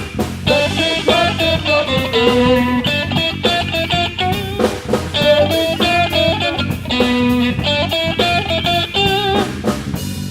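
Live blues trio playing an instrumental passage: electric guitar lead lines with wavering, vibrato-laden notes over bass guitar and a drum kit.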